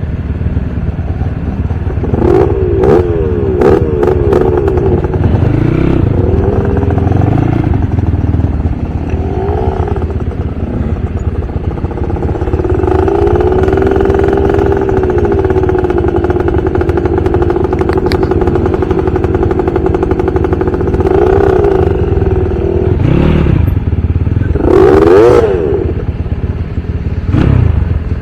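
Motocross/enduro motorcycle engine running, revving up and down in quick bursts a few seconds in and again near the end, with a long steady-throttle stretch in the middle.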